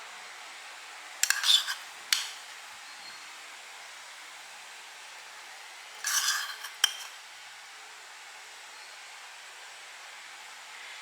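A utensil scraping and clinking against a pan or bowl in two short bouts, each about a second long, over a steady faint hiss.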